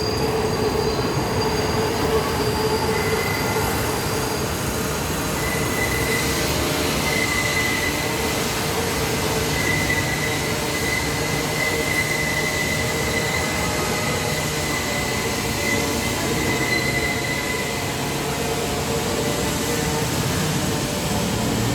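New York City subway train running through the station, its wheels squealing on the rails. A thin, high, steady squeal comes in about three seconds in and fades near the end, over a continuous rumble.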